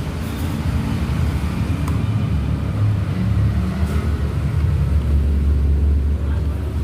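Road vehicle engine running with a steady low rumble.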